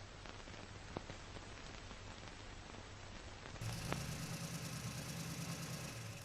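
Faint steady hiss with an occasional single click; about three and a half seconds in it changes abruptly to a slightly louder hiss with a steady low hum.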